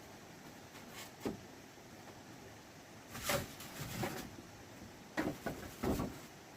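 A few irregular knocks and scraping handling noises against a quiet background, the loudest ones in the second half.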